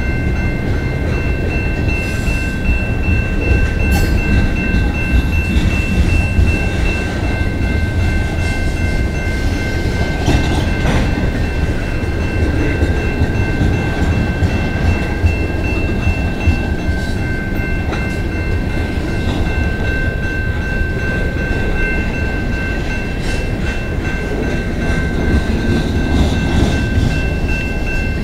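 Freight cars rolling past a level crossing: a steady low rumble with wheel clatter on the rail joints, under a steady high ringing from the crossing warning bell.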